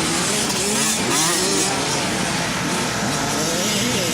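Several motocross bikes' engines running on the track, revving up and down in overlapping rising and falling pitches.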